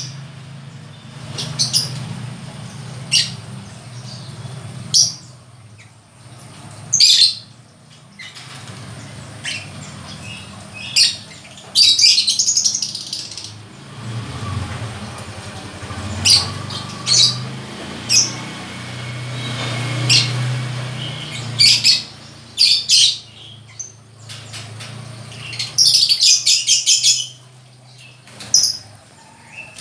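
Lovebirds chirping: short high-pitched calls every second or two, some in quick strings of several, over a low steady hum.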